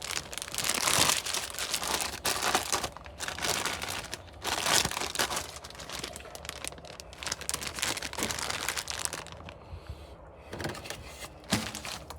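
Plastic packaging crinkling and rustling in irregular bursts as a new exhaust part is handled, dying down near the end.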